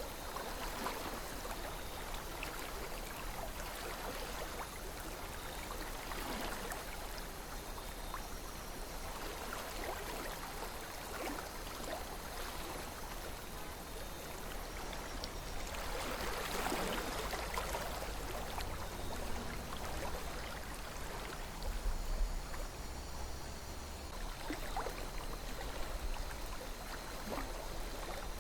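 River water flowing steadily over stones, a continuous babbling with small trickles and splashes, swelling slightly now and then.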